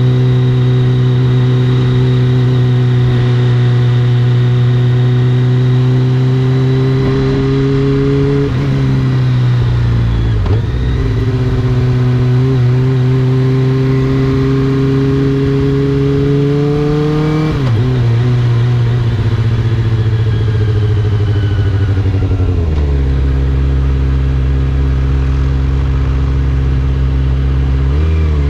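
Kawasaki ZX-25R's 250 cc inline-four running through an Akrapovič exhaust, heard from the bike while riding. The revs hold steady, dip about a third of the way in, climb slowly and drop sharply about two-thirds of the way in, then fall away and step down near the end.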